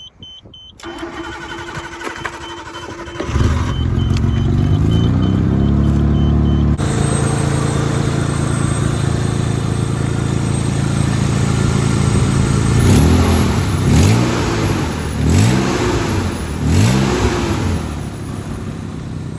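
Nissan Skyline R32's RB20E straight-six is cranked by the starter for a couple of seconds, catches about three seconds in and flares up before settling into a steady idle. Near the end it is revved four times, about every second and a half, dropping back to idle after each.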